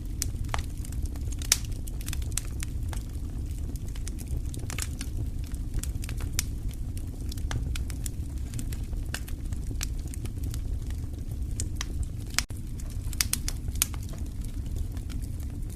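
Wood fire burning in a fireplace: irregular crackles and snaps over a steady low rumble, with a few sharper pops, one about twelve seconds in.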